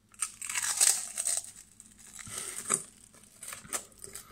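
A prawn cracker crunching as it is bitten and chewed close up, a dense crackle for about the first second and a half, then softer scattered crackles and mouth clicks as the chewing goes on.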